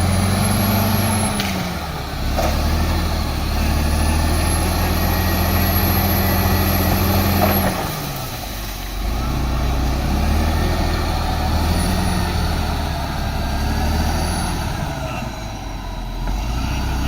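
Heavy diesel earthmoving machine's engine working under load, its revs swelling and dropping several times, with a faint high whine that rises and falls with the engine.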